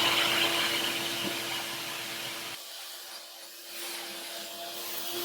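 A machine running with a steady hum and a rushing hiss. It is louder for the first two and a half seconds, then drops and stays steady.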